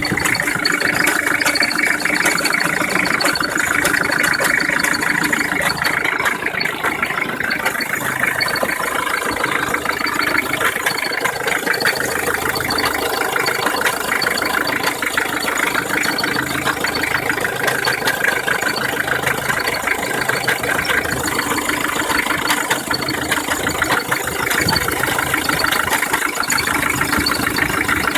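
Mitsubishi 4D56 four-cylinder diesel engine idling steadily with a fast, even clatter; it carries an extraneous running noise whose cause is not identified.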